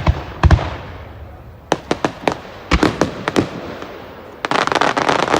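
Fireworks going off: a string of sharp bangs with echoing tails, some in quick pairs, then a dense run of rapid crackling near the end.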